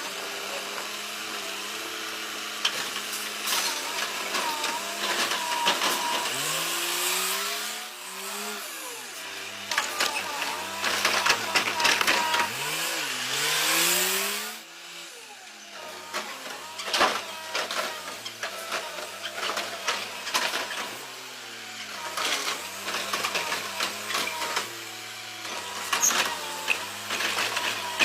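Garbage truck at work: its engine runs steadily, rising and falling in pitch a few times as it works, with repeated clanks and bangs throughout.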